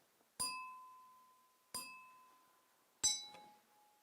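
Three sharp taps on something that rings, each leaving a clear tone that dies away. The first two ring at the same pitch and the third a little lower.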